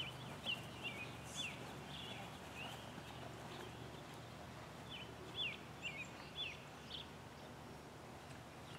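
Birds calling: a series of short, sharp chirps, some in quick pairs and runs, over a faint steady background hum.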